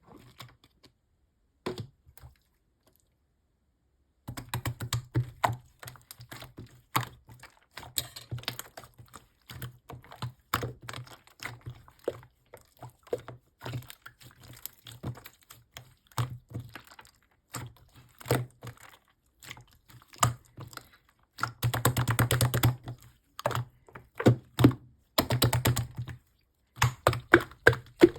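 Hands pressing, poking and squishing slime, making a fast irregular run of sharp clicks and pops that starts about four seconds in, with two denser crackling stretches near the end.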